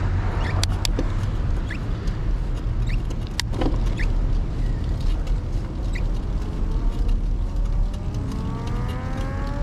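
Wind rumble on the microphone and road noise from a moving bicycle, with scattered sharp clicks. From about two-thirds of the way in, a passing motor vehicle accelerates, its whine rising steadily in pitch.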